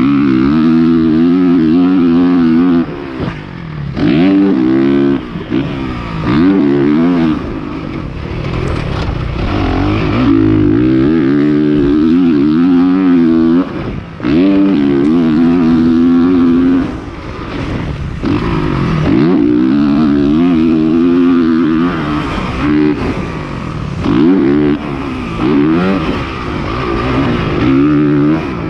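Honda CRF450R 450cc four-stroke motocross bike engine at race pace. It holds high revs in long pulls, then drops off and climbs again every few seconds as the throttle is closed and reopened.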